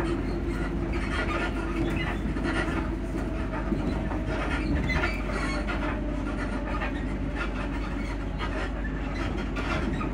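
Running noise inside a Class 334 Juniper electric multiple unit: a steady rumble of wheels on rail with frequent clicks, knocks and rattles from the suspension and carriage body.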